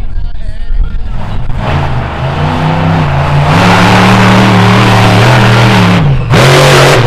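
Monster truck engine revving up and held at high throttle for a couple of seconds, then cutting off abruptly about six seconds in with a short, loud blast of noise.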